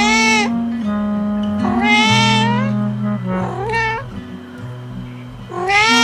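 Cat meows over background music: four drawn-out meows, each rising then falling in pitch, the last starting near the end.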